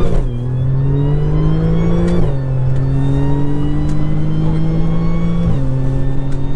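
Audi S4's APR-tuned 3.0 supercharged V6 with a Milltek exhaust, heard from inside the cabin under hard acceleration. The engine note climbs through the gears, dropping at three quick S tronic upshifts about two and five and a half seconds apart, with a short crack at the first two shifts.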